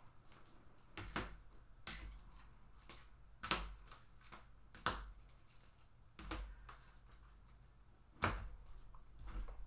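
Trading cards being handled and set down: scattered sharp taps and clicks, about six of them spread out, between stretches of quiet.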